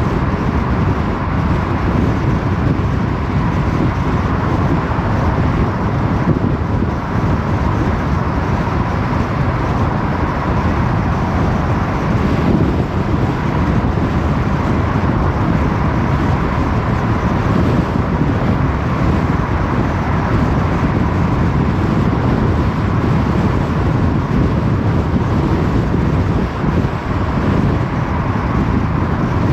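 A car driving along a road at steady speed: even, unbroken tyre, engine and wind noise that is strongest in the low range, with a faint steady hum.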